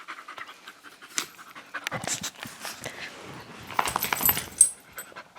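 Dog panting in uneven bursts, with a few sharp clicks mixed in.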